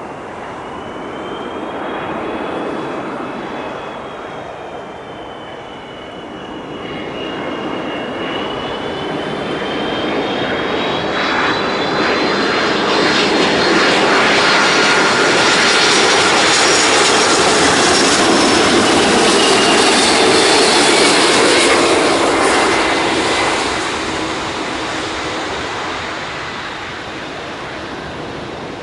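Airbus A330-223 jet airliner on landing approach passing overhead: engine whine that slides in pitch, then loud jet noise that builds to a peak for about ten seconds in the middle and fades away.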